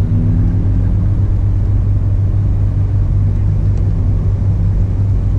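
Ford Mustang V6 engine running steadily with the car stationary, a loud even low drone with no change in speed.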